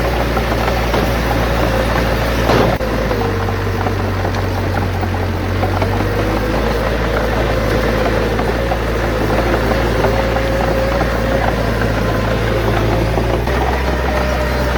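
Bulldozer's diesel engine running steadily under load, its low note shifting a few times, with a wavering whine above it. A single sharp knock comes about two and a half seconds in.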